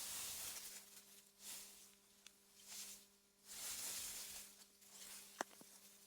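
Wind in meadow grass: a soft rushing hiss that swells and fades in gusts, several times, over a faint steady low hum. A single sharp click sounds near the end.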